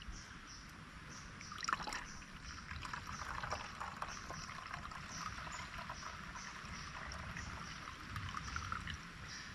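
Water trickling and dribbling through a cloth neck buff into a bottle, the buff filtering out the sediment; a steady trickle that builds up about two seconds in.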